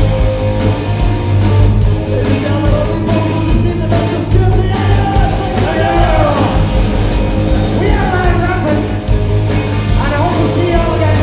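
Rock band playing live with a steady drum beat, heavy bass and electric guitars, and a lead line that bends in pitch in the second half.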